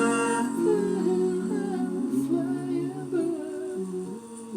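Layered vocal harmony parts singing wordless held notes together, several voices moving from chord to chord. The sound fades toward the end.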